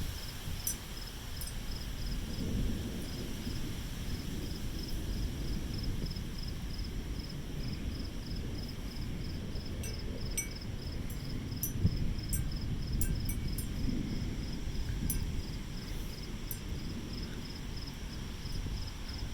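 Crickets chirping in an even, steady pulse over a low rumble of gusty wind on the microphone, with scattered sharp clicks.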